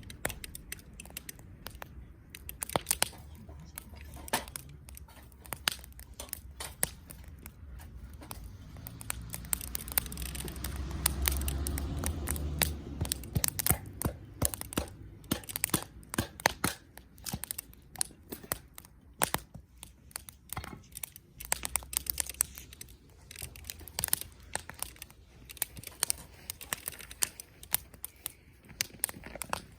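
Wood fire crackling, with many sharp, irregular pops and snaps. A low rumble swells for a few seconds around the middle.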